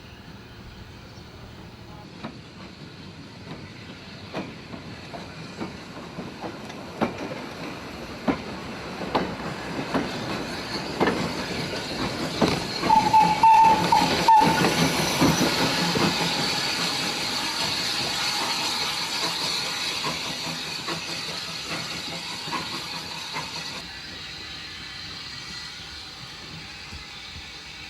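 Andrew Barclay 0-4-0 steam locomotive drawing near over jointed track: wheel clicks come louder and closer together, then the engine goes by with a steady hiss of steam that slowly fades. A brief high tone sounds midway, and the hiss drops away suddenly near the end.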